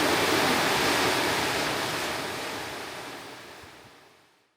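Steady rush of water, fading out over the last two seconds to silence.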